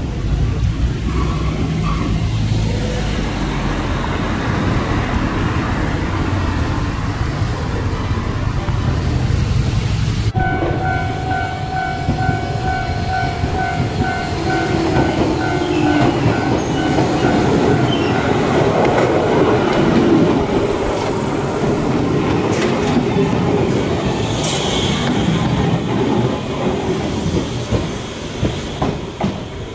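Shizuoka Railway electric trains: first the steady low running rumble of a train, then, after a sudden change about ten seconds in, a pulsing ringing tone for several seconds as another train approaches and runs past close by, its wheels clacking sharply over rail joints near the end.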